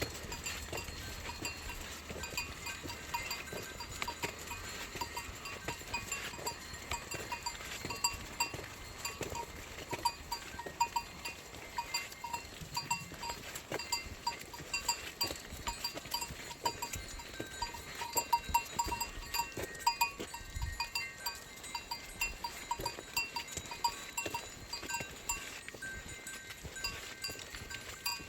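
Bells on a flock of sheep ringing in an irregular, continuous tinkle as the sheep move, with small clicks among them.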